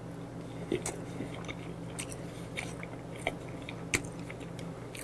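Close mouth sounds of a man chewing a bite of soft monkfish liver (ankimo): scattered wet smacks and clicks, about four of them sharper, over a steady low hum.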